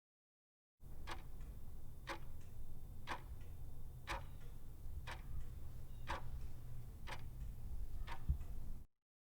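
Ticking at an even one tick per second, like a clock, over a steady low hum. It cuts in about a second in and cuts off sharply near the end.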